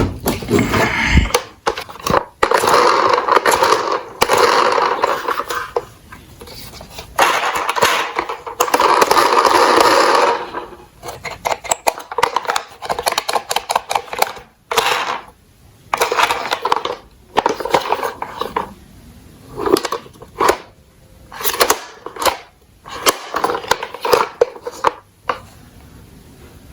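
Toy garbage truck models' plastic wheels rolling down a slope with a steady rumble, in several runs over the first ten seconds, then a string of separate clatters and knocks as the trucks bump and tip.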